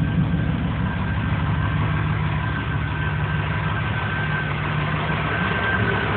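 Truck engine idling steadily, heard at the exhaust.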